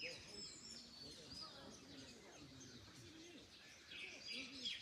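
Small birds chirping and singing faintly: short high calls and notes that slide down in pitch, clustered near the start and again near the end. A soft steady background hiss lies underneath, with faint low murmuring tones.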